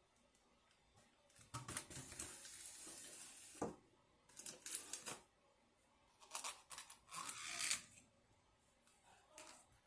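Food wrapping being handled and opened, rustling and crinkling in four bursts separated by short pauses.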